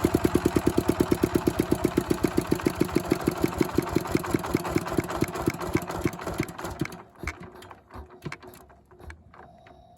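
Changchai L24 single-cylinder diesel running down after shut-off. Its even firing beats slow steadily, then break into a few irregular last thumps before it stops about nine seconds in.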